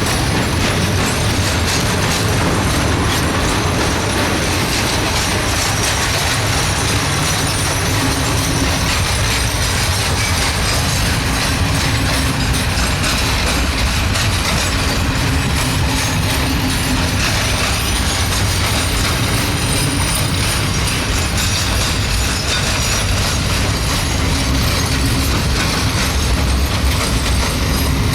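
Diesel-hauled freight train slowly labouring uphill past the listener, its wheels clattering over the rails above a steady low rumble.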